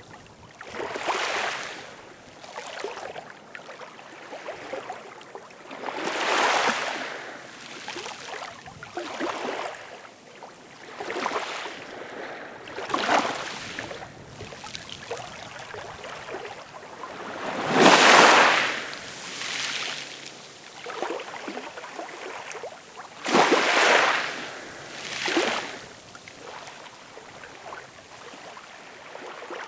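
Ocean surf: waves rush in and wash out in a string of swells a few seconds apart, one larger wave breaking about two-thirds of the way through.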